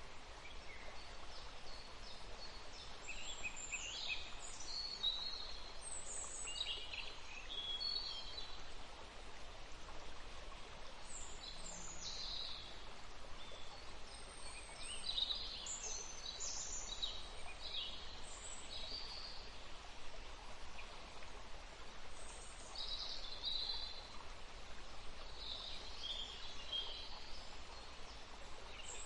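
Forest stream running with a steady rushing hiss, while several birds sing and chirp over it in short, scattered high phrases.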